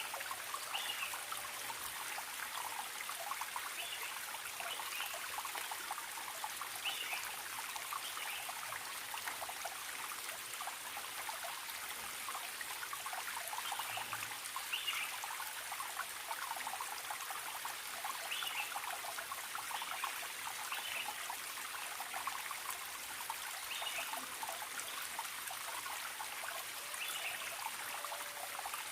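Forest stream trickling and splashing steadily, with short high bird chirps recurring every few seconds.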